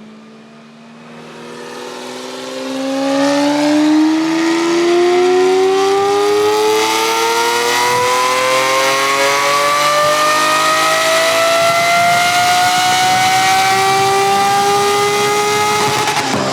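Lamborghini Aventador S's V12, breathing through a Gintani F1 straight-pipe exhaust, on a chassis dyno pull. The engine note climbs steadily in pitch the whole time and is loud from about four seconds in, then dips just at the end.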